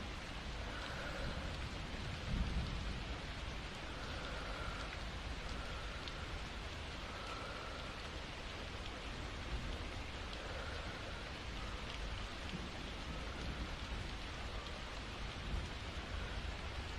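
Steady rain falling, with a brief low rumble about two seconds in.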